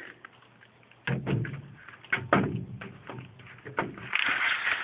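Knocks and scraping from a furnace filter being handled against the furnace's sheet-metal cabinet. After a quiet first second come a few sharp knocks, the loudest about a second and two seconds in, then a stretch of scraping near the end.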